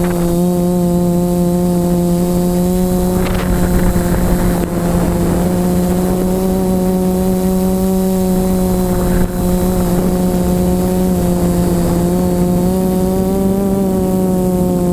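Electric motor and propeller of an FPV model aircraft running at a steady pitched whine, the pitch wavering slightly, with wind rumbling on the microphone and stronger gusts about three seconds in and again about nine seconds in.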